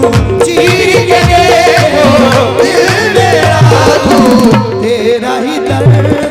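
Qawwali music: tabla drumming in a steady rhythm under a melody of held notes and wavering, ornamented lines.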